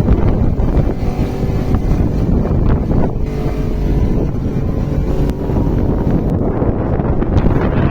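Wind buffeting the microphone over a running vehicle engine: a steady low rumble with a faint engine hum.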